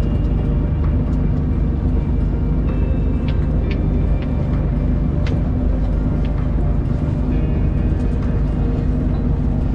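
Fishing boat's engine running steadily with a low hum, with a few short sharp clicks a few seconds in.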